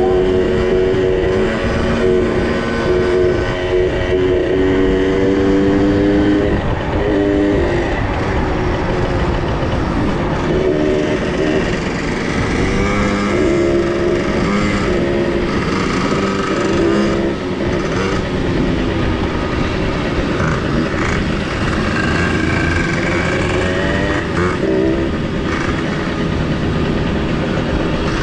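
Small two-stroke minibike engines running on a ride, the engine note rising and falling with the throttle, over a steady rushing noise.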